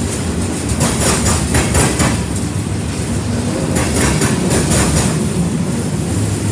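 Freight cars rolling past on the rails: a steady rumble of steel wheels, with clusters of sharp clicks as the wheel sets cross rail joints.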